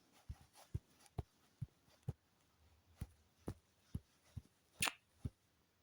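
Faint stylus tapping on a drawing tablet's screen: about a dozen light taps, roughly two a second, with one longer, scratchier tap near the end.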